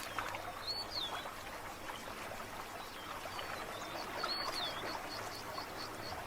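Birds calling over a steady wash of river water: a swooping whistle about a second in and again past four seconds, followed by a run of short chirps.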